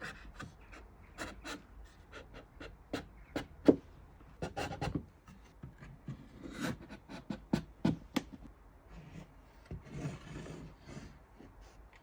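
Wooden pieces being handled: scattered light knocks and taps with some rubbing and sliding of wood on wood, and one sharper knock about three and a half seconds in. No saw is running.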